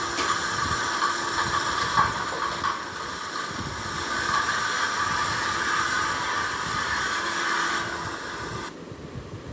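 Aulto ACC 602 double-motor wet/dry vacuum cleaner running steadily: an airy hiss with a few steady tones in it. Near the end it drops off abruptly to a much quieter hiss.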